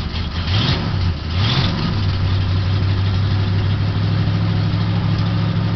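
A 1978 Mercury Cougar's 351 V8 running loud shortly after a cold start. It rises briefly in pitch twice in the first two seconds, then settles into a steady, slightly raised idle.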